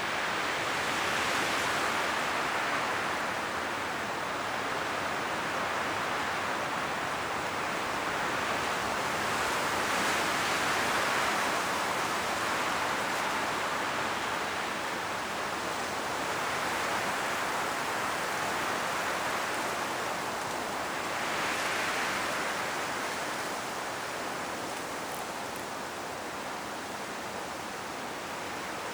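Strong wind blowing through forest trees, with dry autumn leaves rustling; it rises and falls in gusts every several seconds.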